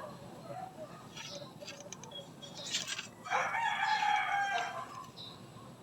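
Rooster crowing once, a drawn-out call of under two seconds that starts about three seconds in, after some short faint chirps and clicks.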